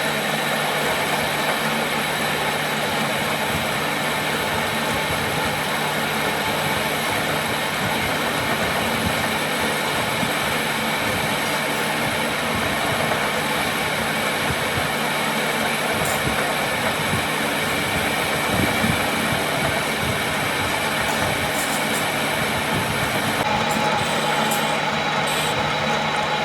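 Steady workshop machine noise: a continuous dense hiss over a constant low hum, running evenly without breaks.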